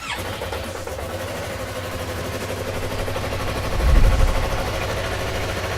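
Yamaha R3's parallel-twin engine started for a battery tester's crank test, then running with a fast even pulse. About four seconds in it surges louder and deeper, then settles to a steady idle.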